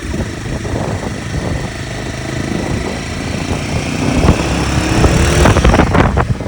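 Motorcycle engine running on the move, getting louder about two-thirds of the way through, then cut off suddenly at the end.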